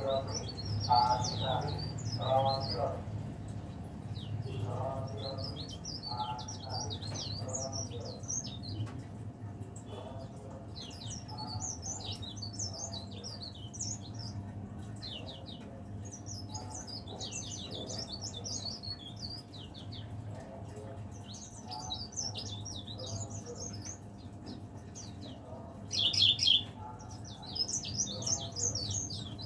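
Cikrak daun (leaf warbler) singing a fast, high-pitched twittering song in repeated bursts, with the loudest burst near the end. Lower-pitched pulsed calls sound in the first few seconds.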